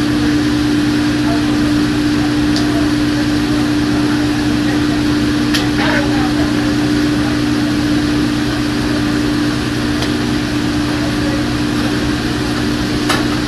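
Steady, loud mechanical hum of kitchen machinery, an even low drone with a fan-like rush over it, broken by a few faint clicks.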